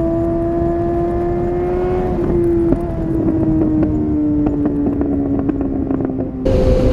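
Suzuki GSX-R 750's inline-four through a Yoshimura exhaust at high revs. Its note rises slowly, then falls for several seconds with sharp crackling pops from the exhaust as the revs drop. Near the end it jumps abruptly louder to a higher, steady note.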